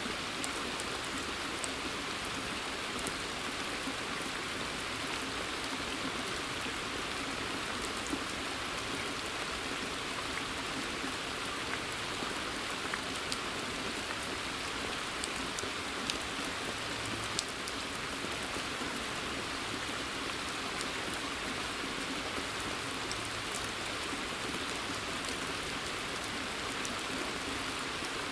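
Steady rain falling in a forest: an even hiss of drops on leaves and surfaces, with scattered single drops ticking out louder now and then.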